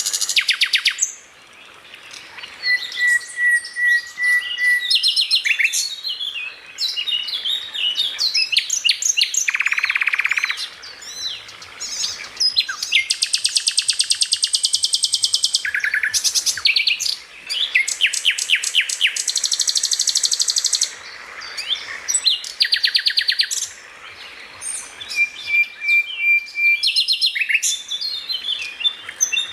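Songbird singing a fast, varied song: rapid runs of sharp repeated notes and rattling trills, with a couple of held whistled notes and short pauses between phrases.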